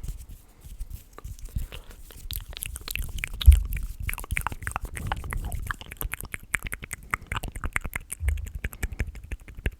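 Close-miked ASMR mouth sounds: a quick, dense run of wet clicks and smacks. Two low thumps come about three and a half seconds in and again near the end.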